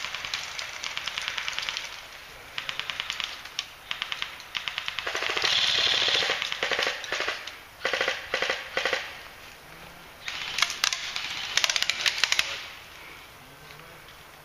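Airsoft guns firing rapid full-auto bursts, a fast run of clicks in each burst, several bursts in succession with short pauses between them.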